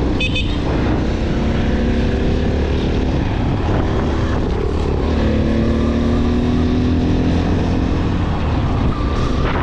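Motorcycle engine running under way, its note climbing slowly as the bike gathers speed, with wind rush on the helmet or bike microphone.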